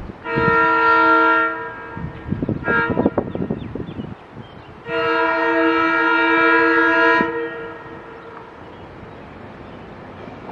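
SEPTA train horn sounding: a long blast, a short blast about two and a half seconds in amid some clattering, then a second long blast ending about seven seconds in, followed by a lower rumble of the train.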